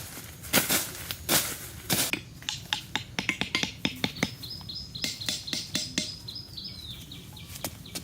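Manual work noises: a few scraping strokes, then a long run of quick, light knocks. High chirps join in from about halfway through.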